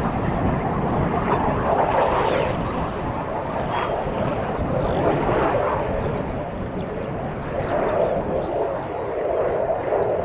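Jet airliner engine noise: a loud, steady rush that swells and eases slightly, with short high chirps above it.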